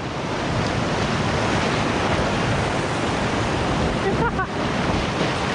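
Whitewater of a river rapid, rushing steadily and loudly close to the microphone, with a brief faint call-like sound about four seconds in.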